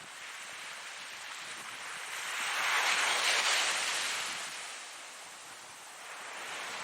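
Ocean surf: one wave breaks and washes in, swelling to a peak about three seconds in and fading away, with the next wave building near the end.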